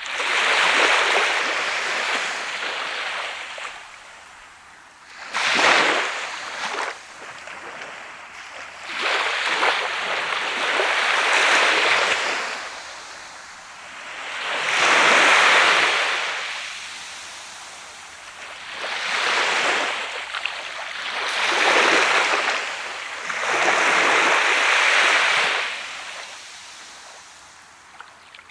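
Sea of Japan waves breaking and washing up a sandy beach, each surge swelling and fading, about one every three to four seconds.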